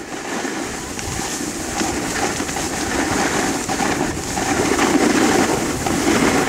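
Snowboard sliding over snow with a rough scraping hiss, mixed with wind rushing over the microphone, getting louder toward the end.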